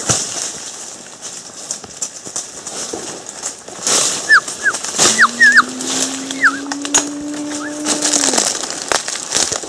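Rustling and scattered clicks. About four seconds in comes a quick string of short, sharp bird chirps, lasting roughly two and a half seconds. Meanwhile a low steady tone starts about five seconds in and stops a little after eight seconds.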